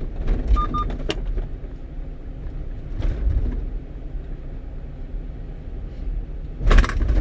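A one-ton truck driving, heard inside the cab: a steady low engine and road rumble. In the first second there are a few clicks and a short double beep, and a louder burst of noise comes near the end.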